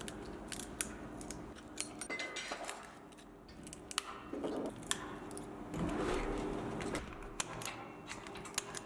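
Metal hand tools scraping and picking broken back glass off an iPhone 12 Pro Max, with irregular sharp clicks and ticks as glass shards are pried loose.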